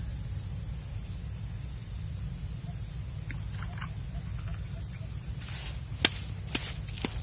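Steady outdoor background: a low rumble and a constant high hiss, with two sharp clicks about six seconds in.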